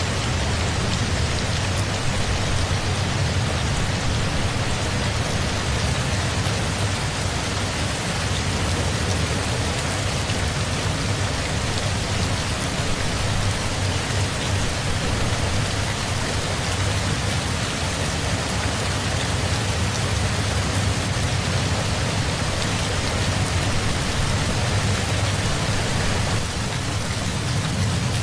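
Steady rain falling, a dense even hiss of drops with a deep low rumble underneath.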